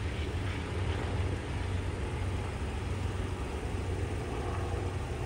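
Steady low rumble of a diesel-hauled Amtrak passenger train moving away, its locomotive engines and rolling wheels running at an even level.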